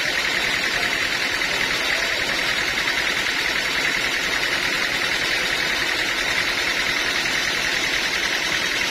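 Sawmill machinery running steadily, a continuous even noise with no breaks.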